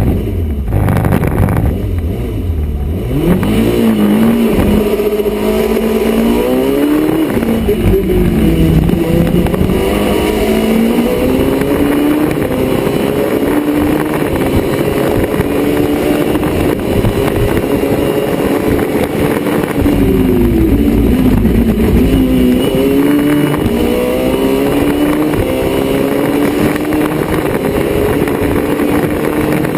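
Citroen Saxo RP4 race car's 1.6-litre 16-valve four-cylinder engine, heard onboard, revving hard up and down through its sequential gearbox. The pitch climbs, falls away about seven seconds in and again about three-quarters of the way through, then climbs again.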